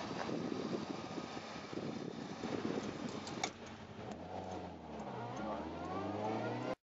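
Honda S800's small high-revving four-cylinder engine running under way, heard from inside the cabin. It starts as a rough, noisy rumble; after a sharp click about halfway through, the engine note climbs steadily in pitch as the car accelerates, then cuts off suddenly.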